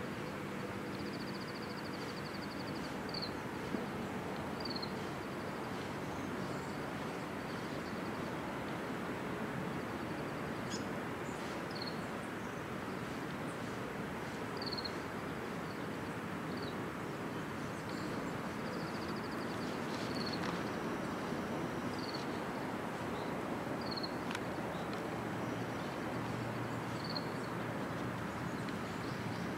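A small bird giving short high chirps every couple of seconds, with a brief high trill now and then, over a steady wash of outdoor background noise.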